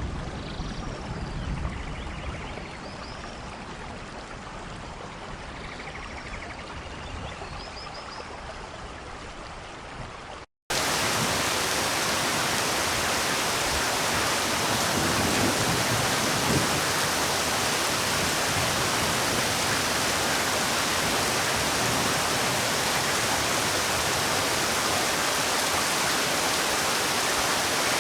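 Rain falling steadily, with the tail of a low rumble in the first couple of seconds and a few faint high chirps, then a sudden cut about ten seconds in to a much louder, even downpour hiss.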